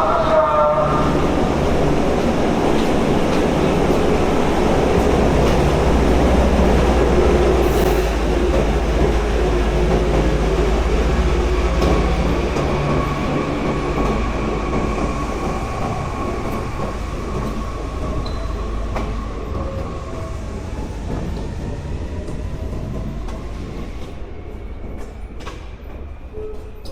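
Hankyu Kyoto Line commuter train heard from inside the car, running through the tunnel with a steady rumble of wheels on rail. It grows steadily quieter over the second half as the train slows.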